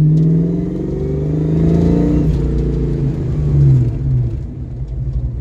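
1982 Ford Mustang GT's 5.0-litre V8 accelerating, its pitch climbing for about two seconds, then breaking off and falling away as the car slows in a 40 mph brake-test stop, over steady road rumble.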